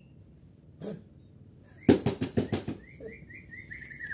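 White-rumped shama (murai batu) beating its wings in a loud burst of about eight rapid flaps, then giving a string of short, falling call notes about three a second, the agitated bird worked up by a mental test.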